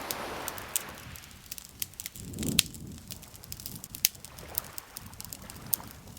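Campfire crackling, with frequent sharp pops and snaps of burning wood over soft rushing swells.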